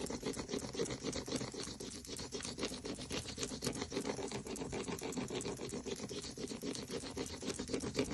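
Crayon rubbed rapidly back and forth over paper laid on a leaf, a steady fast scratching made of many quick strokes, as a leaf rubbing is made.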